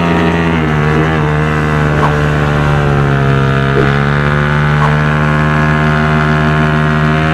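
Motorcycle engine running steadily at near-idle, its pitch holding almost constant with slight drifts.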